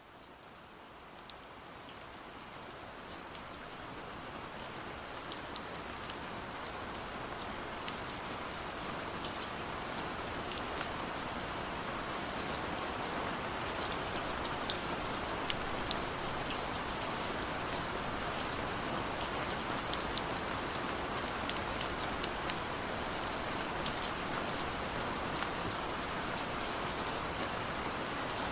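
Steady gentle rain falling, a dense hiss with many small distinct drop ticks, fading in from quiet over the first several seconds and then holding even.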